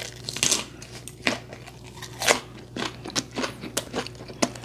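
Close-miked chewing of a mouthful of kimchi wrapped around boiled pork (bossam): wet crunches and smacks, several a second and irregular.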